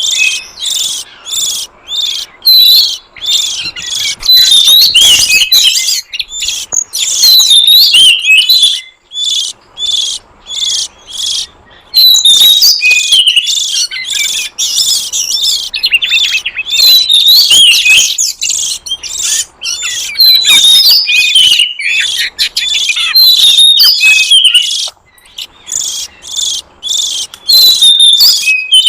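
Oriental magpie-robin (kacer) singing: a dense, rapid run of varied high whistles, chirps and trills, broken only by short pauses.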